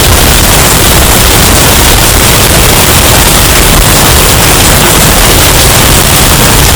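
Hurricane wind sound effect, heavily bass-boosted and distorted to clipping: a dense, steady rush of noise with no breaks.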